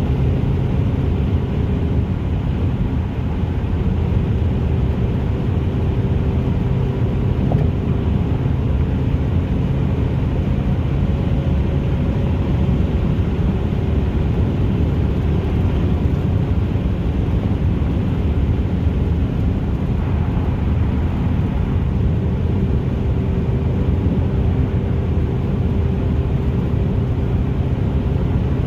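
2004 Ford Focus 2.0 Zetec inline-four running through an FSWerks race header, 2.5 inch downpipe and Stealth exhaust, holding a steady, deep drone without revving.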